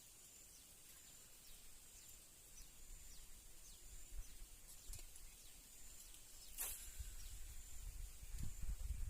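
Faint riverside ambience of insects keeping up a steady high-pitched whine that comes and goes, with many short falling bird chirps. A brief rushing sound comes about two-thirds through, and a low rumble builds near the end.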